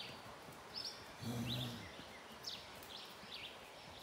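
Birds chirping: short high calls repeated every half second or so. A brief low call sounds once, about a second in.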